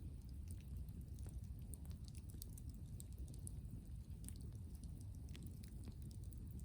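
Wood bonfire crackling, with irregular sharp pops and snaps scattered throughout, over a steady low rumble.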